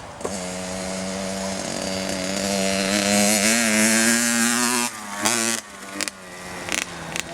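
Kawasaki KX60 two-stroke dirt bike engine pulling under throttle, its pitch climbing slowly as it gets louder. About five seconds in it cuts off sharply as the rider lets off for a bump, with a brief blip of throttle just after.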